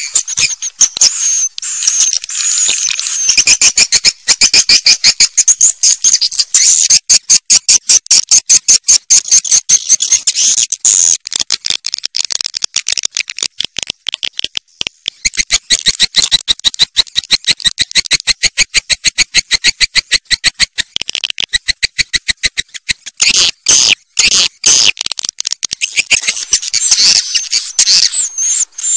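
Swiftlet calls: a fast, rattling twitter of rapid chirps repeated many times a second, with a few short breaks. This is a swiftlet lure sound, the kind played through speakers at nesting houses to draw swiftlets in.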